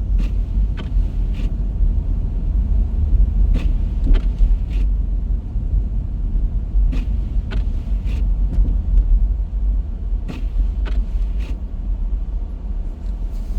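Car driving, heard from inside the cabin: a steady low road-and-engine rumble, with short clicks or knocks in small groups every few seconds.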